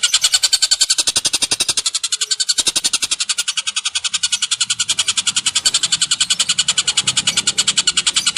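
Bird calls in a fast, even rattling trill of about twelve sharp notes a second, unbroken throughout.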